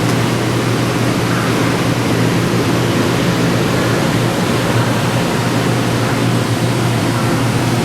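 EMU500 electric multiple unit train running at the station platform, a steady hum under a broad rushing noise.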